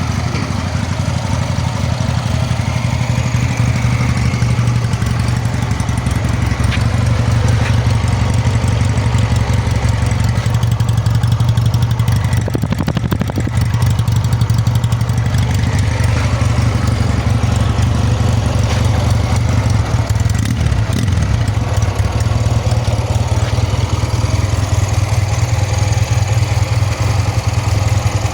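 An unrestored Honda CD 200 Road Master motorcycle's twin-cylinder engine idling steadily, its pitch unchanged throughout.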